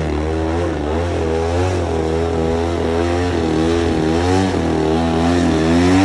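An engine running continuously, its pitch wavering gently up and down over a steady low hum.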